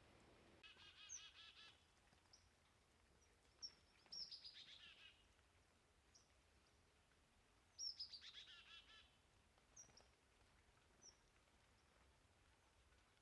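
Chickadees and tufted titmice calling: three chick-a-dee-type call series, each a high opening note followed by a quick run of buzzy repeated notes, about one, four and eight seconds in, with short high chip notes between them.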